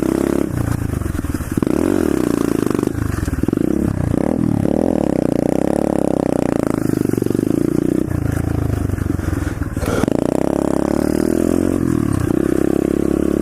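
Pit bike engine running under way as it is ridden, its pitch rising and falling with the throttle and dropping off briefly several times, about every two to four seconds.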